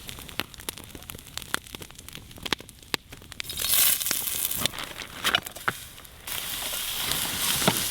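Campfire crackling and popping, then about six seconds in a pan of cold cooking oil over the fire starts a steady sizzle.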